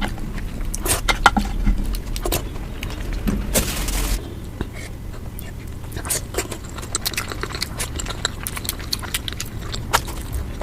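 Eating sounds sped up about fivefold: a rapid, dense run of clicks, crunches and clinks from biting, chewing and cutlery, with a brief burst of hiss-like noise about four seconds in.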